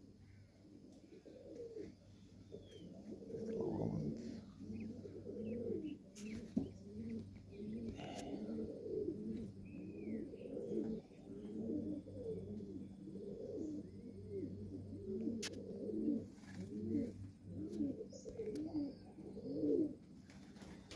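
Domestic pigeons cooing over and over, many low coos overlapping, with a few faint higher chirps and a few sharp clicks.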